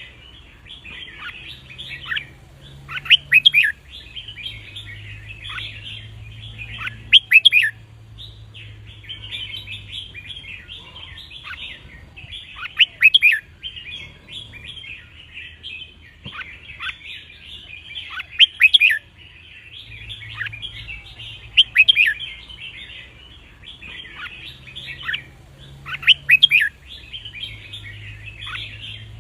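Red-whiskered bulbul singing: a continuous twittering chatter with loud, sharp whistled phrases breaking in every few seconds.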